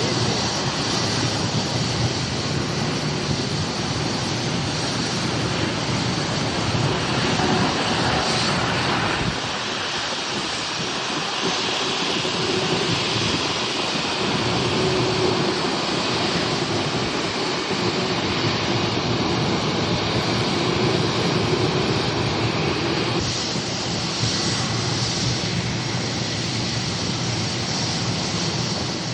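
Airliner engines running, a steady noise with a faint hum that shifts a little now and then.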